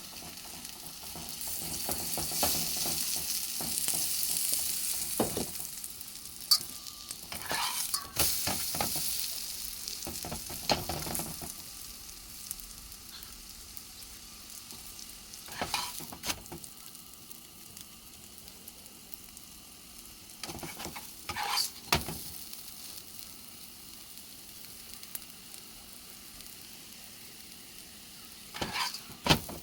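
Potato-stuffed roti frying in a hot pan, sizzling, loudest in the first few seconds and then settling lower. A utensil scrapes and knocks against the pan several times.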